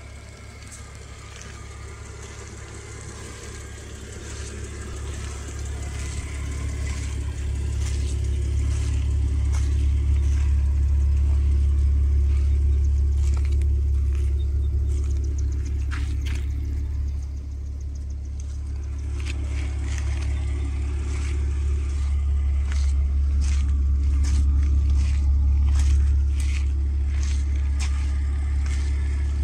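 A Mercedes-Benz SLK 32 AMG's supercharged 3.2-litre V6 idling steadily, getting louder over the first ten seconds, with a dip about seventeen seconds in. Short crunching footsteps on gravel come and go over it.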